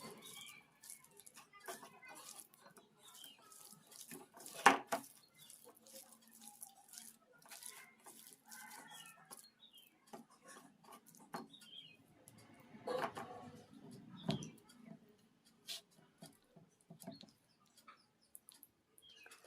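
A person eating pakhala (watered rice) and fried sides by hand: many small wet clicks, smacks and chewing sounds, with a sharp knock about five seconds in.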